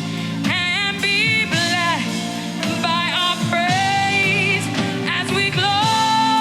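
Gospel praise and worship music: a solo voice singing long, bending notes, the longest held near the end, over steady keyboard-and-band accompaniment.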